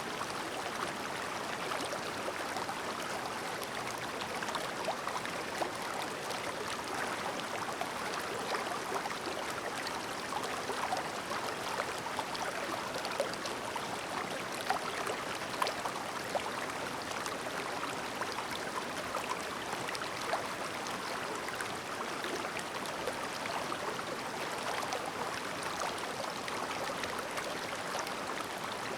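Shallow clear river burbling over stones, a steady rush of water with many small splashes and trickles.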